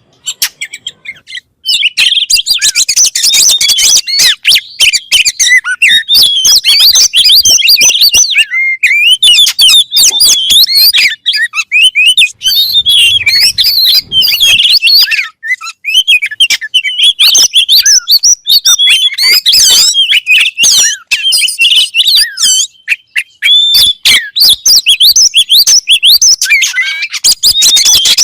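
Oriental magpie-robin (kacer) singing a fast, varied stream of high whistles, chirps and trills, starting about a second and a half in, with short lulls midway and about three-quarters through.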